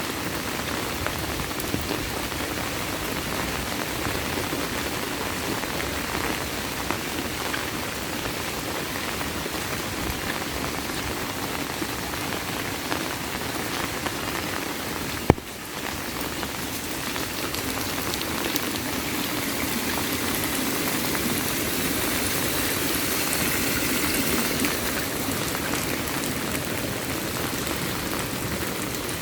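Heavy rain falling steadily, swelling slightly in the second half, with a single sharp click about halfway through.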